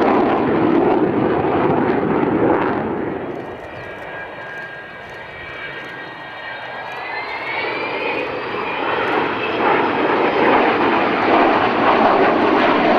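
Jet aircraft engine noise, loud at first, easing off for a few seconds, then building again. As it builds, a high whine of several tones rises in pitch.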